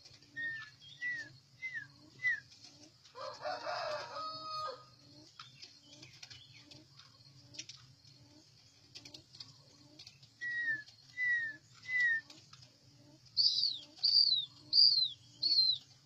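A bird whistling runs of short down-slurred notes: four near the start, three about ten seconds in, then four louder, higher notes near the end. A longer, harsher call comes about three seconds in.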